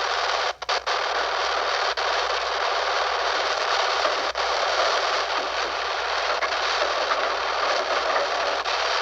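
Steady rushing hiss on an old recording's soundtrack, cutting out briefly a few times in the first half.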